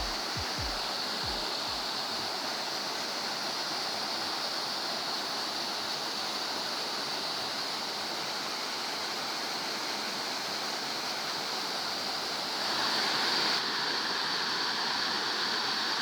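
Small waterfall on a stream pouring and splashing in a steady rush, growing a little louder about twelve to thirteen seconds in.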